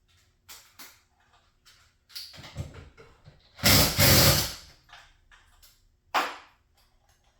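Work noises on garage door hardware: scattered knocks and clatter, a loud rushing scrape lasting about a second near the middle, and one sharp knock near the end.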